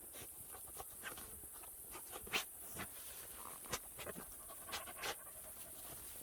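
Truffle dog searching through forest leaf litter: panting, with irregular crackles of dry leaves and twigs underfoot.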